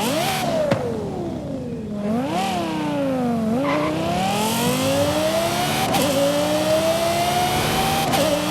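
Lexus LFA's V10 engine under way: the revs fall, pick up briefly, drop again, then climb steadily under acceleration, with two quick upshifts, each a sharp crack and a small dip in pitch, about six and eight seconds in.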